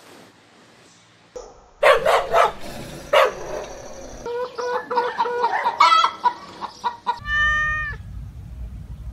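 A run of animal calls: a few loud, harsh calls about two seconds in, then a string of short pitched calls, then one long pitched call near the end.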